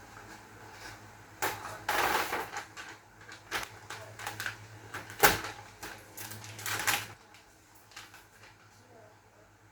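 Objects being handled: irregular clicks, knocks and rustling, with a sharp knock about five seconds in, over a faint low hum that stops about seven seconds in.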